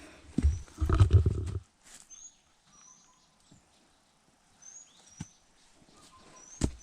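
Wild birds calling with short, high whistled notes and a few lower slurred notes. About half a second in there is a brief low rumble lasting about a second, the loudest sound, and there are a couple of single knocks near the end.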